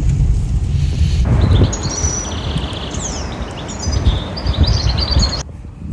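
Small birds chirping in quick trills and short twitters over a steady low outdoor rumble. The sound cuts off suddenly near the end.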